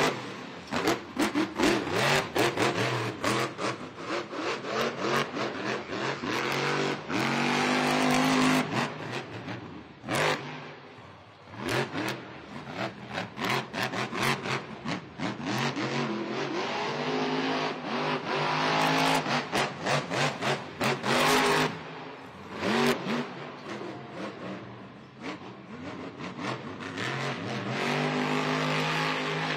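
Monster truck engine revving hard in repeated surges, its pitch climbing and falling as the throttle is opened and closed, with a brief lull partway through.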